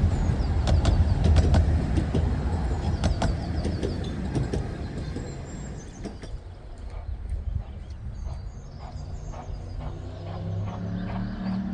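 Miniature railway train running past, its rumble and wheel clicks over the rail joints fading away over the first half, with birds singing. A low steady hum starts near the end.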